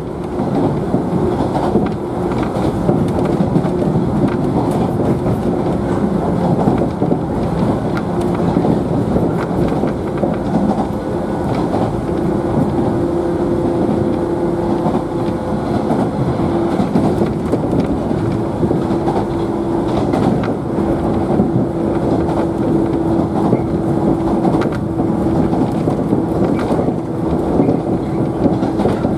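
JNR 113 series electric train running between stations, heard from inside a motor car: continuous wheel-on-rail rumble with scattered clicks, under a steady hum held at one pitch.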